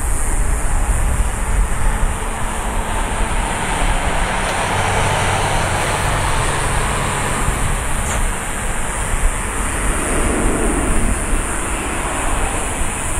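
Boeing 737-800's CFM56-7B jet engines on final approach, a steady rush of engine noise with low rumble, heard at a distance and growing toward the airliner's arrival.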